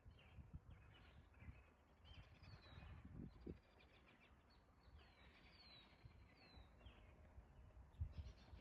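Faint outdoor birdsong: short, high chirps that slide downward, repeating about once a second, over a low rumble with a few soft bumps.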